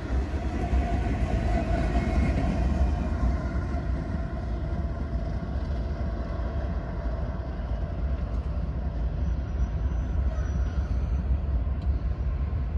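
Diesel freight locomotive and railcars rolling by on the rails: a steady low rumble with wheel and rail noise that eases slightly after the first few seconds as the train moves away.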